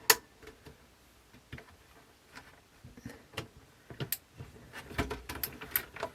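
Scattered small clicks and taps of fingers and tools handling a cassette deck's tape mechanism while a small rubber drive belt is worked onto a pulley. A sharp click right at the start, with more taps bunched in the last two seconds.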